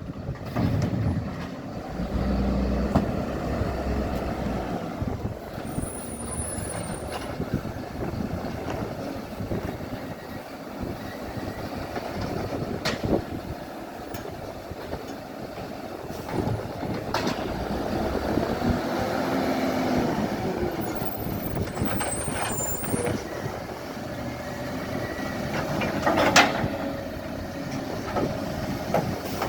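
Garbage truck running, its engine droning steadily, with a few sharp hisses or knocks along the way, the loudest near the end.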